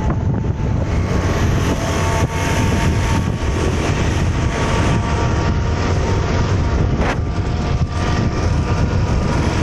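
Truck engine and road noise from passing traffic, running steadily throughout, with a deep low rumble and faint steady whining tones.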